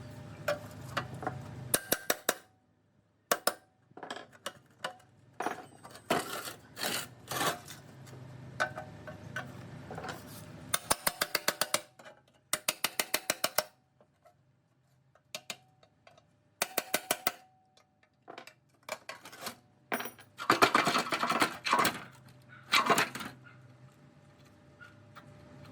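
Metal tools and parts of a concrete plate compactor clinking and knocking during workshop restoration, with runs of rapid, evenly spaced clicking and a denser clatter near the end.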